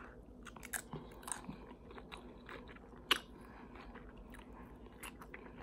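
Close-up chewing of a crisp tortilla chip topped with taco meat: soft crunching and mouth clicks, with one louder crunch about three seconds in.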